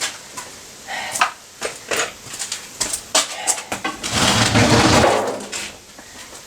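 Knocks and clatter of things being moved by hand on a workshop floor, with a louder scraping rumble lasting about a second, about four seconds in.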